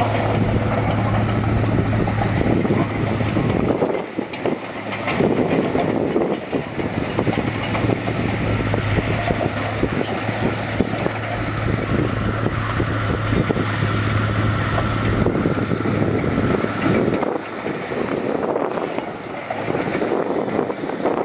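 Diesel engine of heavy earthmoving machinery working, with a steady hum that stops about fifteen seconds in over continuous mechanical noise.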